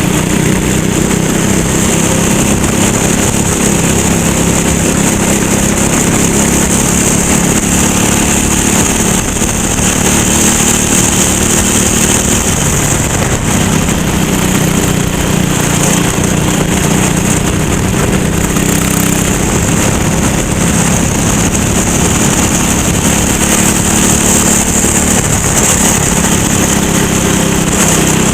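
Kart engine running hard under load, its pitch dropping briefly twice, at about twelve seconds and again near the end, then climbing back as the throttle is lifted for corners and reopened. A steady high hiss runs alongside it.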